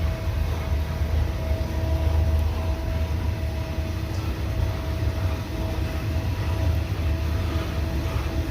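CN freight train rolling past, a steady low rumble of wheels on rail with a faint steady whine that fades in and out, heard from inside a car.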